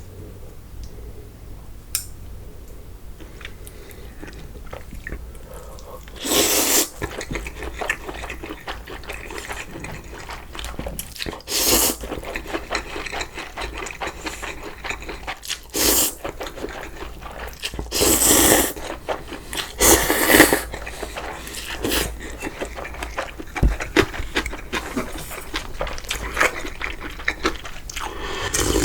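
A person eating cold noodles close to the microphone, chewing with small clicks. From about six seconds in come six or so loud slurps of half a second each.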